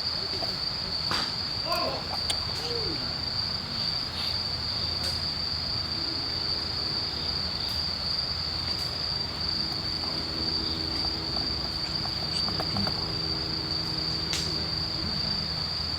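Crickets trilling steadily in one unbroken high-pitched drone, with a few sharp clicks over it.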